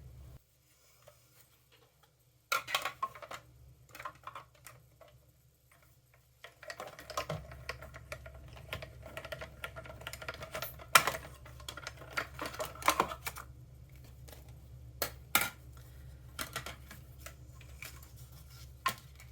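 Scattered clicks, taps and rustles of paper-crafting tools and paper being handled and set down on a work table, with near-silent stretches in the first third. From about seven seconds in, a low steady hum runs underneath.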